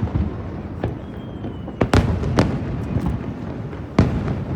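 Aerial firework shells bursting: several sharp booms, the loudest about two seconds in and again near the end, each trailing off in a rolling echo over a continuous low rumble of further explosions.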